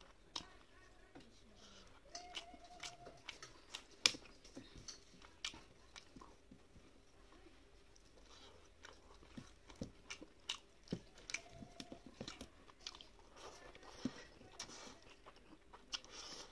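Close-miked chewing and biting of rice and fish curry eaten by hand, with many sharp wet smacks and crunches; the loudest comes about four seconds in.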